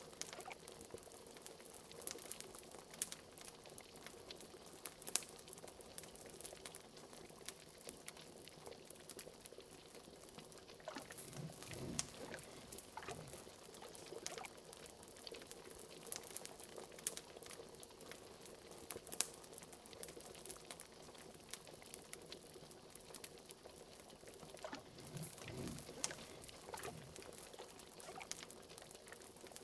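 Liquid bubbling in a pot at a steady boil, with a fire crackling in many scattered sharp pops over a faint steady hiss. A few deeper bubble bloops come about a third of the way in and again near the end.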